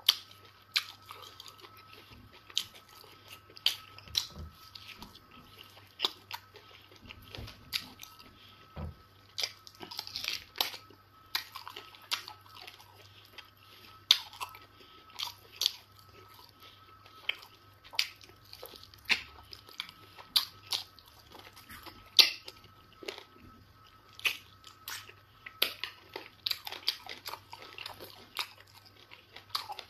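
Close-up eating sounds: wet chewing and lip-smacking of eba swallow with egusi soup, eaten by hand, giving sharp mouth clicks one or two times a second over a faint steady hum.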